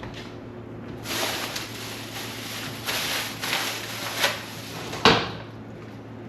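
Rustling and clattering of food containers and fridge parts being handled, ending in one sharp knock about five seconds in, over a steady low hum.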